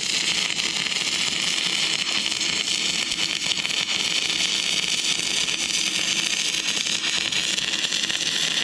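Stick-welding arc from an inverter arc welder burning a 6011 rod on rusty, painted metal: a steady, crackling, sizzling hiss.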